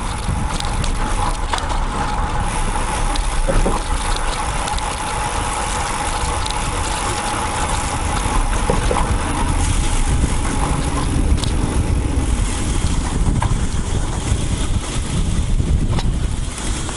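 Steady road noise picked up by a camera mounted on a road bike while riding: the bike rolling with wind on the microphone, mixed with motor traffic, and a few light clicks and rattles.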